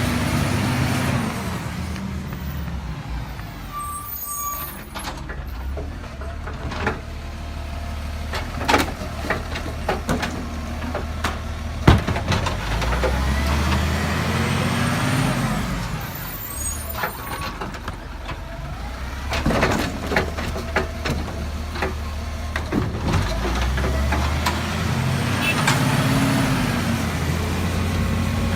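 Garbage truck engine running and revving up and down several times, with a series of clunks and clatters and one sharp bang about twelve seconds in.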